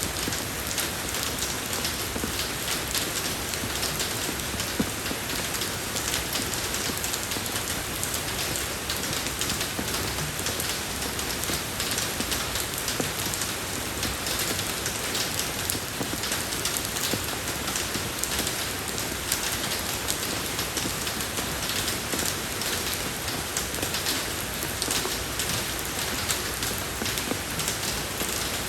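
Steady rain falling on a road, a dense, even patter of many small drops.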